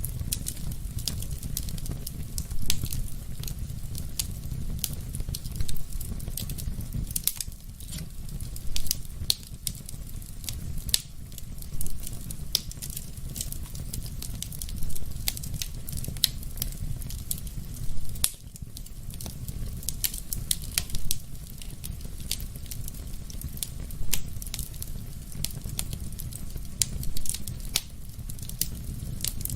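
Wood fire burning in a fireplace: a steady low rumble of flames with constant crackling and sharp pops, a louder pop about every three seconds.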